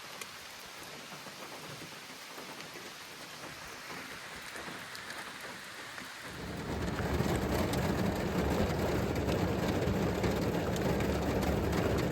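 Steady rain falling, with fine patter throughout; about six seconds in it grows louder and heavier, with a deep low rumble underneath.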